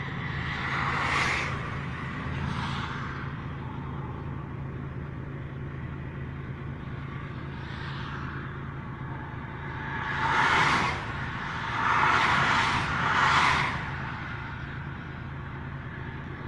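Road vehicles passing by one after another, each a brief whoosh (about five in all, three of them close together near the middle), over a steady low hum.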